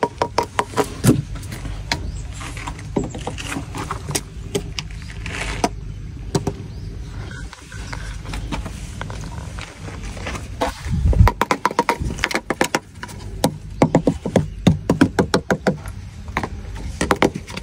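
Insecticide powder shaker can being shaken and tapped to dust powder along a wall edge: runs of quick sharp clicks and rattles, with one heavy thump about eleven seconds in over a steady low rumble.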